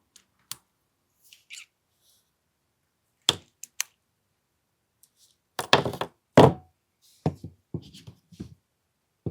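AAP-01 airsoft pistol's action being worked by hand to test it after the sear spring was checked. There are a few sharp clicks, then two louder bursts of rapid knocking clatter about six seconds in, then lighter knocks.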